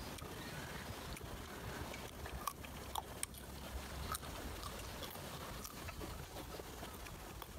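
Crisp bites and chewing of a slice of unripe green June plum (ambarella): short, sharp crunchy clicks scattered through, over a steady low rumble.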